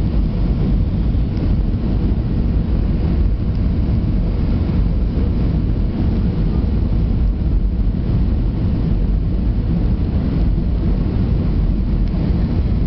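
Steady low rumble of an Airbus A320-200's engines and airflow, heard from inside the passenger cabin, with an even hiss above it and no distinct events.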